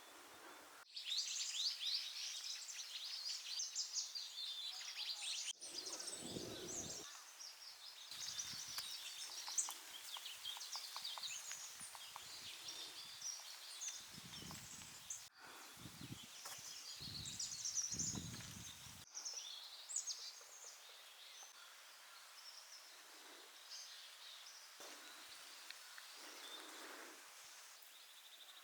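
Small birds chirping and twittering, many quick short calls, broken by several abrupt cuts, with occasional low rumbles of wind on the microphone.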